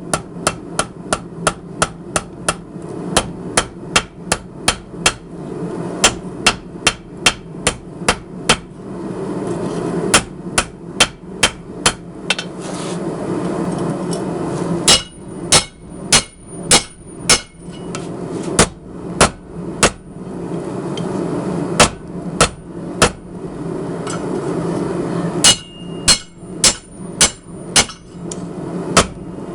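Hand hammer striking hot steel on an anvil while forging a ball bearing into a knife blank. The blows come in quick runs of about three a second with short pauses between, and some strikes ring. A steady low rumble runs underneath.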